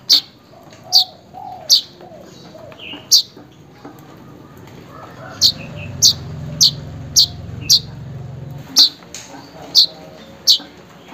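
Manyar weaver bird giving sharp, high, downward-sweeping chirps, about a dozen at roughly one a second: a call used to lure manyar or to set a silent one calling.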